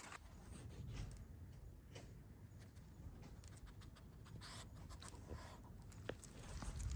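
Faint, scattered clicks and scuffs of a Boston terrier's claws and paws on the ground, over a low rumble.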